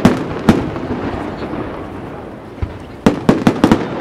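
Firework shells bursting in a display: two loud bangs near the start, a rumbling, crackling haze, then a rapid volley of about six bangs in under a second near the end.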